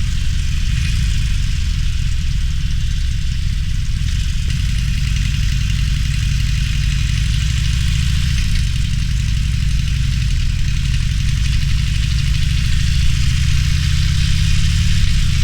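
Harley-Davidson Roadster's V-twin motorcycle engine running steadily at low revs, with a steady hiss above it. The engine note rises slightly near the end.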